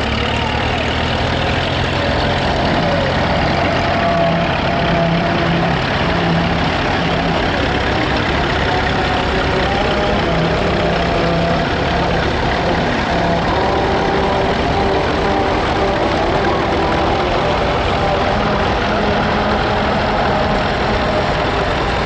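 Several vintage tractor engines running at idle together, a steady mix of engine notes at different pitches.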